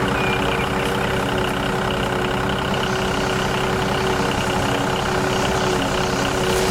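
Small engine of a homemade mini tractor running steadily at an even speed.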